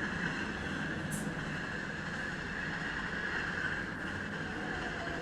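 Train running at speed on the track: a steady rolling noise with a low rumble and a sustained hiss, and one brief high click about a second in.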